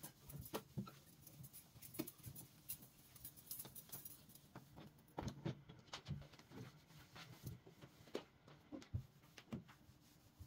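Scattered light clicks, taps and small knocks of household items being handled and set down, irregular and fairly quiet.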